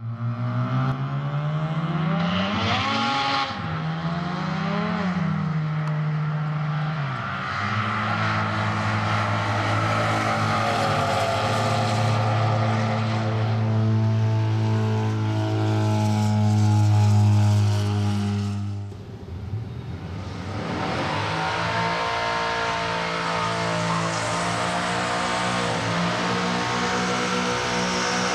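Modified Holden Commodore drag car engine accelerating hard, rising in pitch with two gear changes in the first five seconds, then holding high revs steadily down the track. After a short dip near the middle, the engine revs up again and holds during a smoky burnout.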